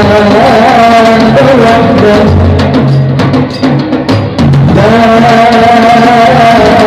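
A solo voice sings a wavering, held melody over drum percussion in a Middle Eastern style. About two seconds in, the voice drops out and only the drums play, then the singing comes back with a long held note.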